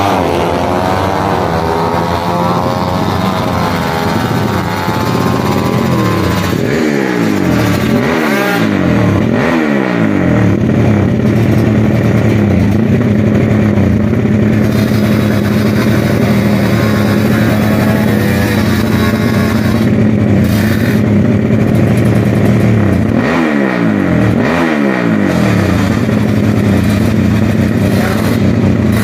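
Drag-race motorcycles: at first the engines of bikes that have just launched fade away down the strip with falling pitch, then the bikes at the start line idle with a steady, loud engine note. A few quick throttle blips come about seven seconds in and again near the end as the riders rev up before their launch.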